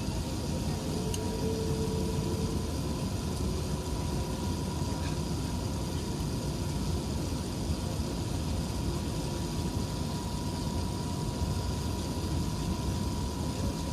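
Steady engine and airflow rumble inside the passenger cabin of an Airbus A380, with a faint steady hum running through it.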